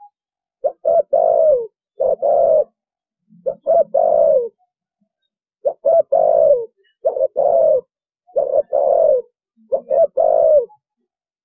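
Spotted dove cooing in the 'thổ bầu' style: about seven phrases, one every second and a half or so, each made of two short notes followed by a longer note that falls in pitch at its end.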